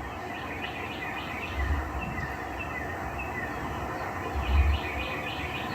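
Small birds chirping and calling repeatedly, short high chirps and quick falling notes, over a steady background hiss, with two low thumps about a third of the way in and again near the end.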